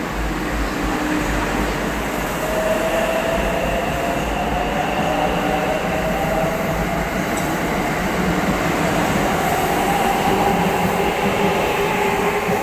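A train running through the station, with a steady rumble and whining tones that slowly rise in pitch.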